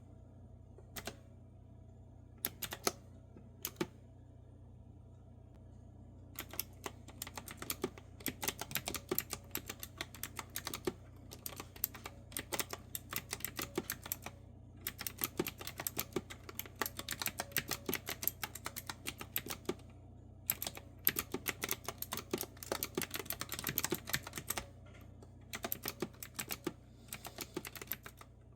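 Typing on a clicky retro-style keyboard with round keys. A few scattered keystrokes come first, then steady fast typing from about six seconds in, broken by a few short pauses.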